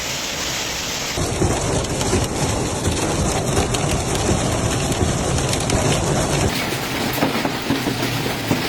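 Heavy rainstorm: a steady downpour, with strong low rumbling noise in the middle section. The sound changes abruptly about a second in and again about six and a half seconds in.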